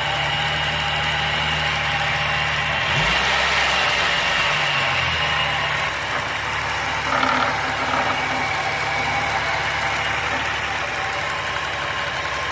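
Chevrolet Omega 3.0 straight-six engine idling hot with a strange mechanical knocking noise that only shows at warm idle. Oil pressure has been checked and is fine, and the owner suspects the timing chain. The low engine note shifts briefly about three seconds in, then settles back to a steady idle.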